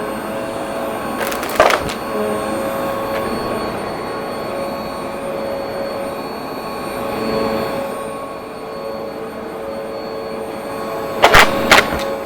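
Upright vacuum cleaner running steadily with a motor whine. Brief loud crackles of debris being sucked up come about a second and a half in and twice near the end.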